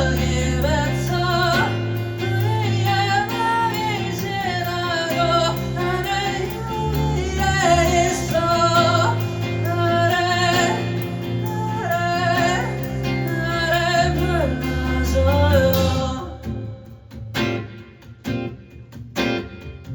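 Live acoustic band performance: a singer's melody over guitar and bass. About 16 seconds in, the singing and bass drop out, leaving only strummed guitar.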